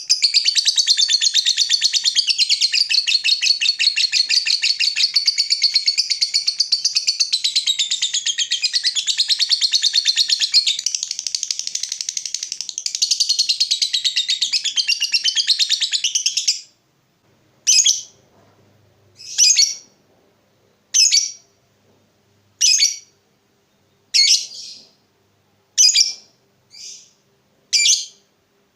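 Lovebird in a long, rapid, unbroken chattering trill (the 'ngekek' song). It cuts off abruptly after about sixteen seconds and gives way to short single chirps about every second and a half.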